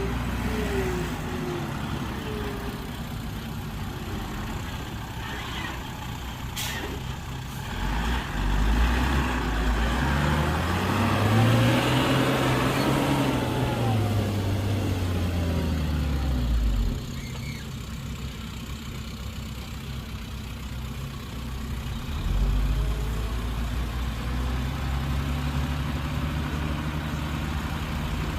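Heavy diesel engine of earthmoving machinery running, revving up and holding high for several seconds in the middle before dropping back, then picking up again near the end. A short sharp click sounds about a third of the way in.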